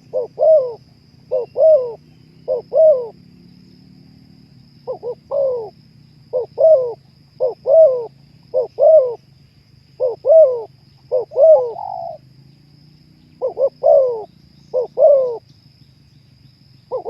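Spotted dove (terkukur) singing: a run of short, paired coo notes repeated about once a second, with a pause of about two seconds a few seconds in. A faint steady hum lies underneath.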